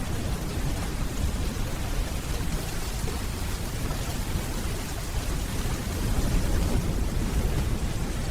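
Steady rainfall under a low, rolling rumble of distant thunder, which swells slightly about six seconds in.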